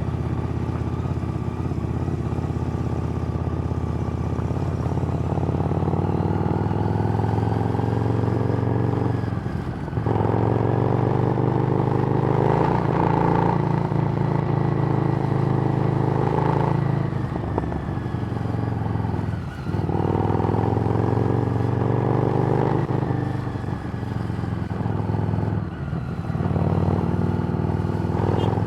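Harley-Davidson Street Rod's 750 cc V-twin, running through a Screamin' Eagle exhaust, carrying the bike along at riding speed. The engine note drops briefly a few times, about 10 and 20 seconds in, then picks up again.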